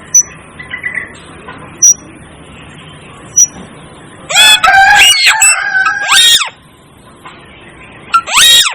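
Asian glossy starling calling: three short, sharp high notes about a second and a half apart, then a loud, harsh call about two seconds long with several pitches bending up and down, and a shorter call near the end.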